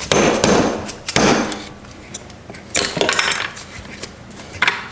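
About five uneven hammer blows on a punch, each a sharp metallic strike with a short ring, driving a part apart inside a Subaru six-speed transmission.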